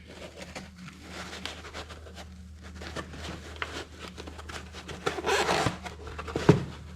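Rustling and scraping of a sharpener kit's packaging and parts being handled, with a denser rustle near the end and one sharp knock, over a steady low hum.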